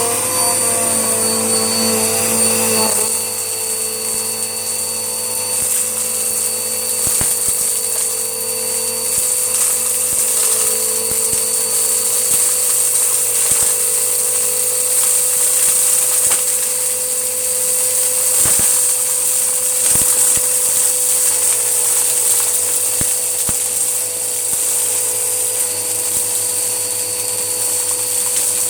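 Hoover Whirlwind upright vacuum cleaner running steadily with a whining motor note, its tone shifting about three seconds in. Scattered sharp clicks and rattles come through as it picks up cat litter and grit.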